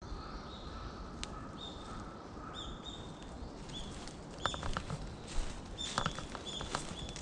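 Small birds calling with short, repeated high notes, and footsteps crunching on a woodland path starting about halfway through.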